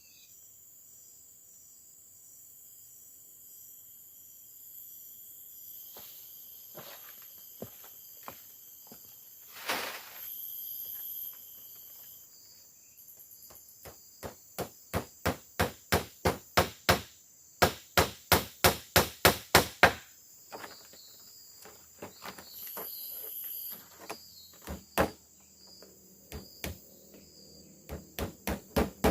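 Runs of hard, rapid strikes, about three to four a second, start about halfway through and return near the end, over the steady high buzzing of forest crickets and other insects. A single louder rustling burst comes about a third of the way in.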